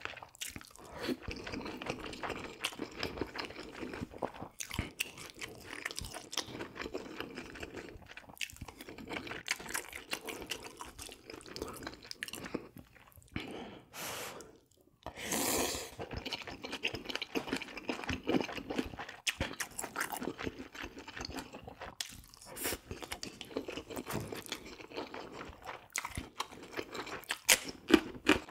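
Close-miked chewing and crunching of food, a steady run of moist crackles and clicks, with a short lull about halfway through.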